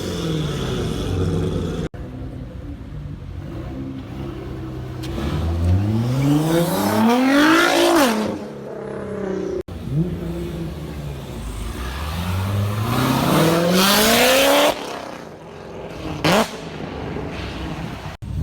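Several cars accelerating hard one after another, each engine note climbing steeply in pitch as it revs out and passes; one run cuts off suddenly near the end and a brief fast pass follows.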